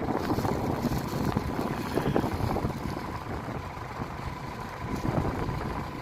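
Wind buffeting the microphone: an uneven low rumble that swells and fades.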